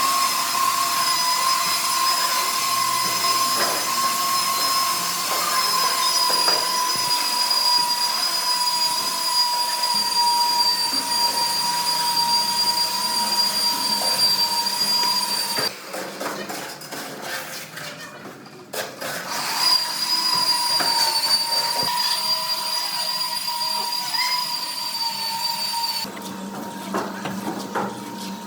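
An electric power tool running with a steady high whine. It stops about halfway through, starts again a few seconds later, and stops shortly before the end.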